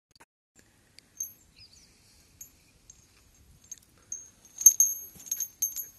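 Small birds chirping: a few scattered high chirps, then a quick run of short, sharp chirps in the last second and a half.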